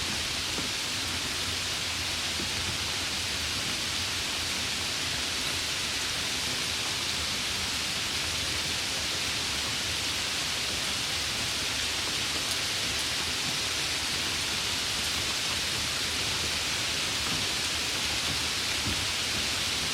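Steady summer rain, an even hiss with no breaks or changes.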